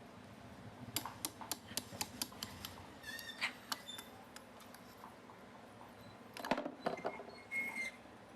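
A series of light, sharp clicks and taps, quick and irregular over the first few seconds, then a short cluster of louder knocks and a brief high squeak near the end, like small hard parts or tools being handled.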